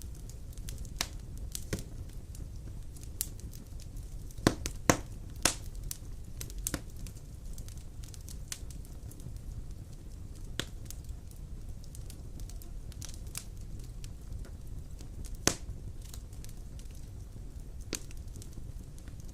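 Wood fire of large logs burning in a stone fireplace: a steady low rumble of the flames with irregular sharp crackles and pops, the loudest cluster of pops a little before the midpoint of the first third and another single sharp pop past three-quarters of the way through.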